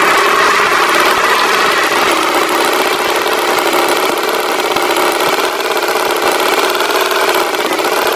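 Tractor engine sound effect running steadily at a constant pitch.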